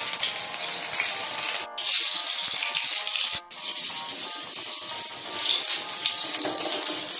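Gram-flour-battered stuffed tomatoes sizzling as they deep-fry in hot oil in a wok, with background music; the sound cuts out briefly twice.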